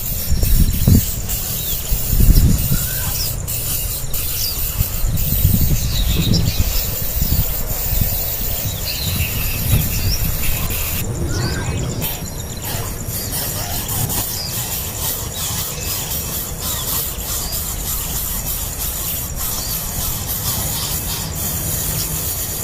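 Nestling birds begging with short, high, thin squeaks, scattered irregularly, over a steady low rumble.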